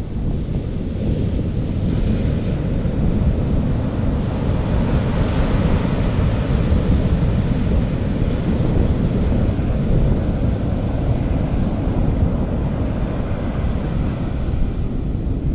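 Sea waves washing onto a beach: a steady rush that swells a couple of seconds in and eases off near the end, with wind rumbling on the microphone.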